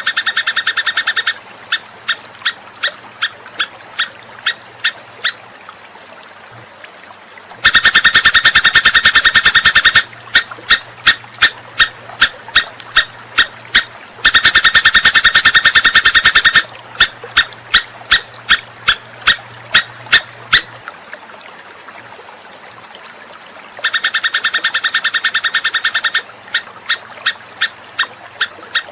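Recorded songbird call played as a training master: a fast rattling trill alternating with a series of sharp, evenly spaced chips about two and a half a second. The same pattern repeats over and over like a loop, with brief pauses about six seconds in and again near twenty-one seconds.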